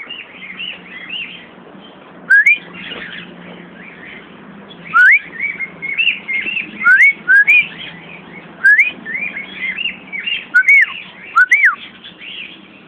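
Birds, which the speakers take for cockatiels, whistling: a run of short rising-and-falling whistled notes, several of them loud.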